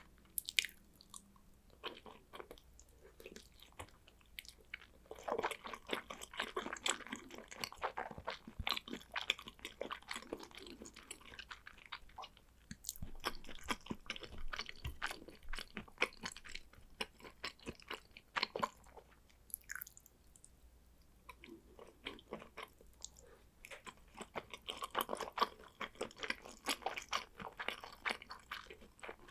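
Close-miked chewing of salmon sushi, with wet mouth clicks and smacks that come in two denser spells of chewing.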